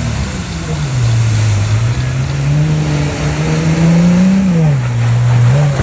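Jeep engine running under changing throttle: its pitch drops about a second in, climbs slowly, falls again after about four and a half seconds, and cuts off at the end.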